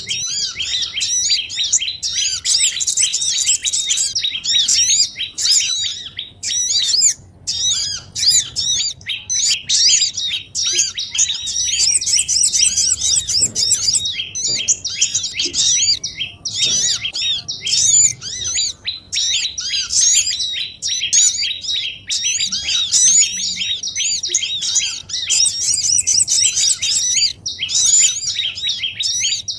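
Bird-lure recording of many small songbirds chirping and twittering at once: a dense, nonstop chorus of rapid high-pitched chirps, dropping out briefly a couple of times.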